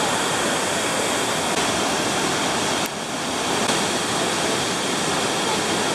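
Waterfall rushing, a steady, loud spray of water noise that dips for a moment about three seconds in.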